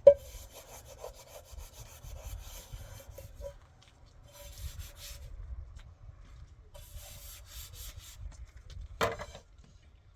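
Bouts of quick rasping, scraping strokes, three runs with pauses between, opening with a sharp knock and with a single thump near the end.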